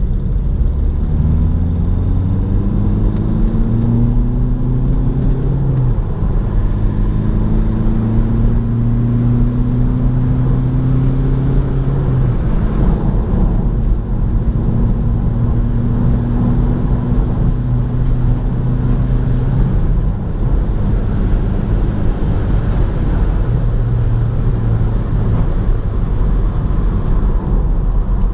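Opel Astra 1.6 BiTurbo CDTI four-cylinder diesel pulling hard through the gears. Its note rises, drops back at gear changes about six and twelve seconds in, then holds a steadier, slowly rising hum over constant road and wind noise.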